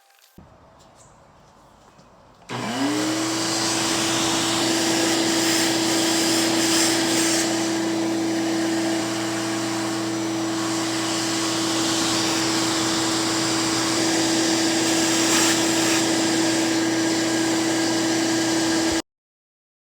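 Shop vacuum switched on: the motor starts at once, spins up within a moment and then runs steadily with a high whine over a lower hum. The sound cuts off suddenly near the end.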